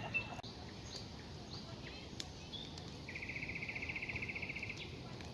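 Outdoor nature ambience: birds chirping now and then, and a rapid, even trill lasting about a second and a half from just past the middle, over a steady low background hiss, with a few sharp clicks.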